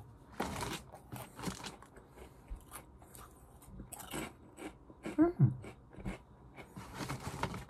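Crunching and chewing of Ogamja crispy potato snacks in the mouth, many short crackly crunches, with one brief hum of the voice about five seconds in.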